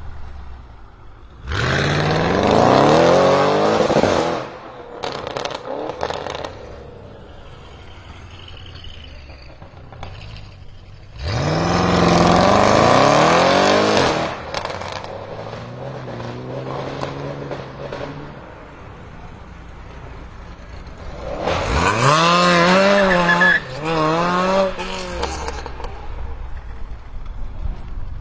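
BMW M6 F06 Gran Coupe's twin-turbo V8 through an Akrapovic exhaust, revving hard three times: each burst rises quickly in pitch and holds for two to three seconds, with quieter running in between. The last burst wavers up and down a few times before dropping away.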